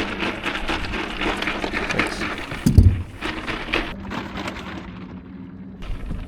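Clicks, knocks and rustling of handling on a small boat's deck, with one heavy thump a little under three seconds in, over a steady low hum.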